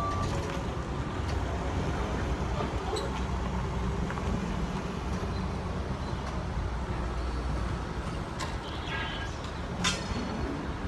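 Engine of a heavy vehicle running steadily with a low rumble, with a single sharp click shortly before the end.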